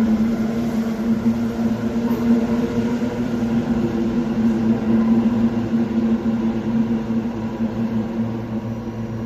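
Steady, unchanging hum of a Sendai Subway Tozai Line 2000 series train as it departs, one strong tone with a few fainter steady tones around it.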